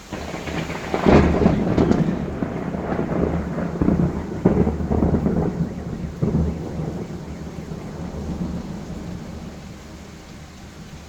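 Thunder over rain: a sharp crack about a second in, then rolling rumbles that slowly die away over several seconds.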